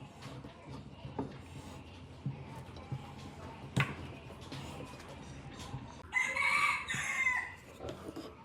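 A loud, drawn-out animal call lasting just over a second, about six seconds in. Scattered light knocks and clicks come before it.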